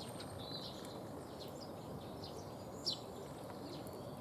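Small woodland songbirds calling around the feeders: scattered short, high chirps and quick downward notes, one a little louder about three seconds in, over a steady low background hum of the outdoors.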